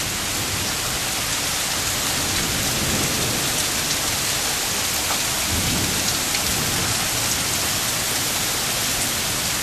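Heavy rain falling steadily during a thunderstorm, a constant hiss of downpour.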